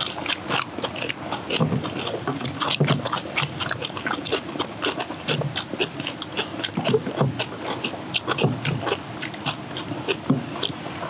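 Several people chewing mouthfuls of kimchi and rice close to the microphone: a steady, irregular run of small crisp clicks and wet smacks.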